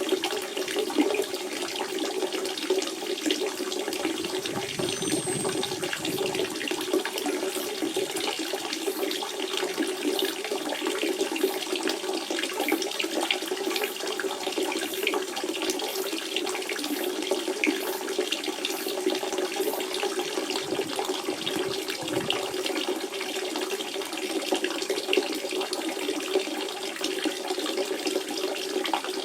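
Spring water running and splashing steadily, a continuous burble with a low steady rush and many small splashes.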